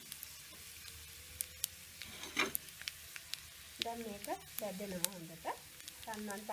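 Sliced onions, curry leaves and green chillies sizzling in hot oil in a non-stick pan, a steady hiss with scattered sharp pops and crackles: the tempering being fried for a dhal curry.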